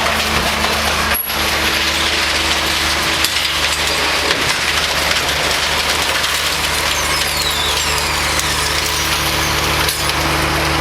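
Garbage truck running, a steady low engine hum under a constant crunching, clattering noise from its loading and compacting gear.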